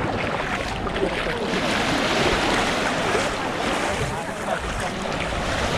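Wind buffeting the microphone over the wash of waves on the beach, a steady noisy rumble.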